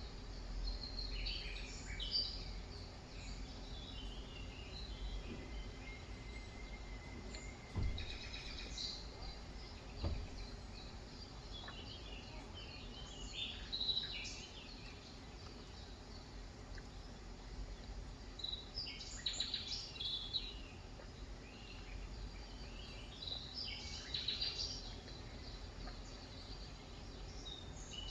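Wild birds chirping in short bursts every few seconds over a steady background noise of rain, with two faint knocks near the middle.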